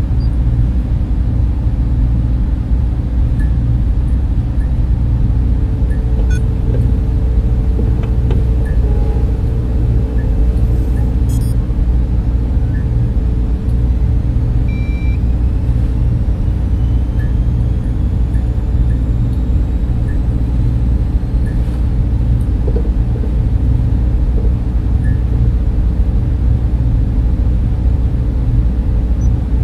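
Data center server-room hum: a steady, deep drone of fans and cooling equipment, with faint scattered ticks and a short high beep about halfway through.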